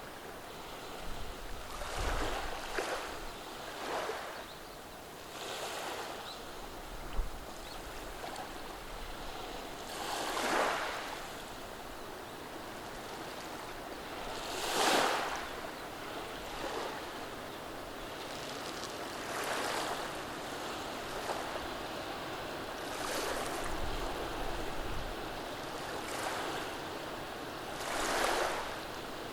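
Small, gentle waves washing over a beach of rounded pebbles, each wash a soft hiss lasting about a second and coming every few seconds. A short low thump sounds about seven seconds in.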